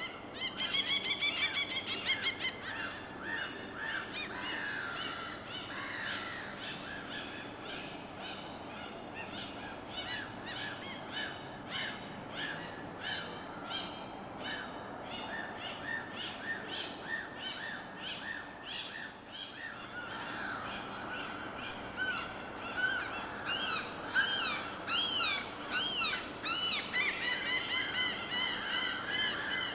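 Many birds calling continuously in rapid strings of short pitched notes over a steady wash of water noise. The calls are loudest near the start and again in the last third, where sharp rising-and-falling calls stand out.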